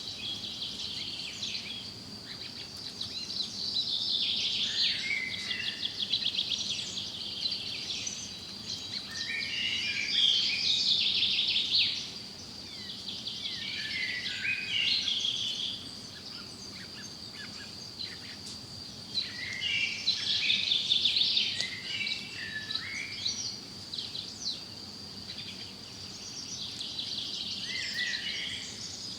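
Several songbirds singing in a forest, quick chirping and trilling phrases coming in bouts every few seconds, over a steady high-pitched insect-like drone.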